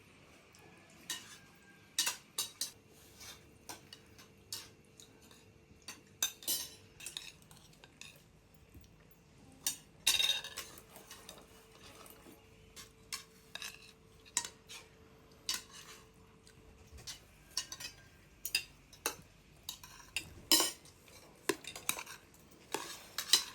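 Spoons and dishes clinking: irregular sharp clinks and knocks of utensils against plates and pots, a few louder strikes among many light ones.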